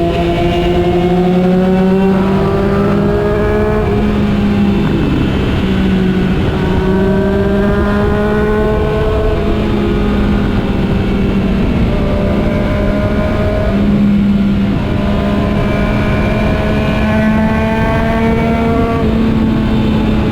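Motorcycle engine under way, its pitch climbing for a few seconds and dropping back several times, as when shifting up through the gears, with steady wind rush underneath.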